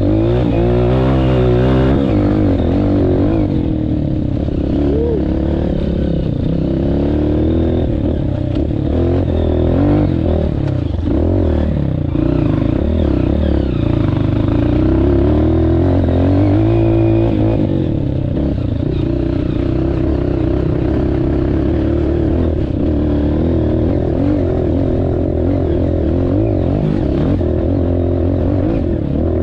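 Honda CRF230F trail bike's single-cylinder four-stroke engine revving up and down as the bike is ridden, its pitch rising and falling every second or two.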